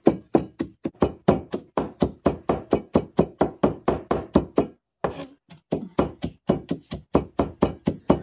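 Cleaver chopping garlic on a cutting board: a rapid, even run of knocks, about four or five a second, with a brief pause about five seconds in.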